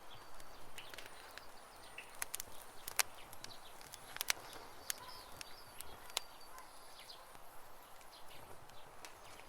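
Campfire crackling with irregular sharp pops, the loudest about three and four seconds in, while small birds chirp.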